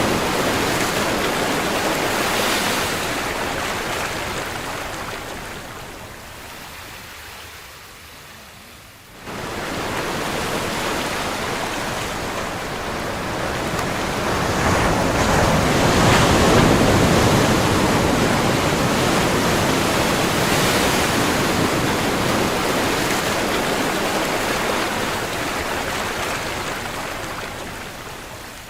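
Ocean surf: waves breaking and washing in as a steady rushing hiss that swells and ebbs. The sound fades, then cuts back in suddenly about a third of the way through, builds to a loud surge past the middle, and fades again near the end.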